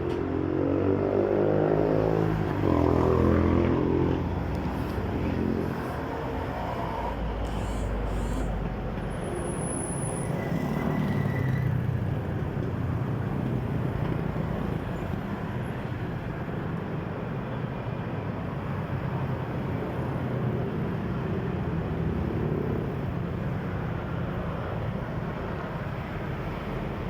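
Motor vehicle traffic: an engine passes in the first few seconds, its pitch rising and falling, then a steady low traffic rumble carries on.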